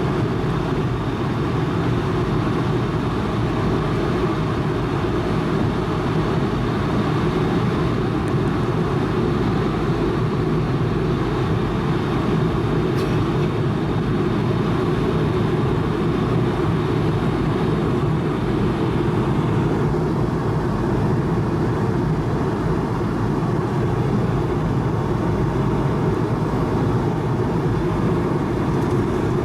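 Steady cabin noise of an Airbus A220-300 in flight: an even rush of airflow and engine noise from its Pratt & Whitney PW1500G geared turbofans, with a faint steady whine above it.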